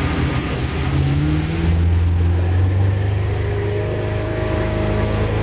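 A motorboat's engine running under way, its pitch climbing over the first couple of seconds and then holding at a steady hum.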